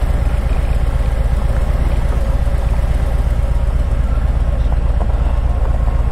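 Harley-Davidson Tri Glide trike's V-twin engine running steadily at low revs with a deep, even throb.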